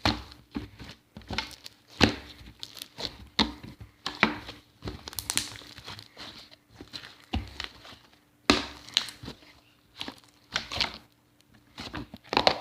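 Slime being squeezed, stretched and pulled apart by hand, giving irregular sticky crackles and pops.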